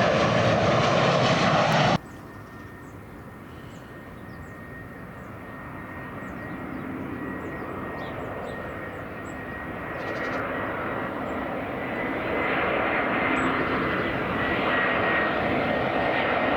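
Jet airliner engine noise, loud at first, cutting off abruptly about two seconds in. Then a jet airliner's engines start faint and grow steadily louder as it approaches, with a steady high whine and a few faint high chirps.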